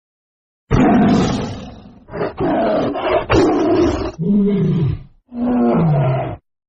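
Tiger roaring: a run of loud, rough roars in four or five bursts. The last two end in a deep moan falling in pitch. The bursts start and stop abruptly.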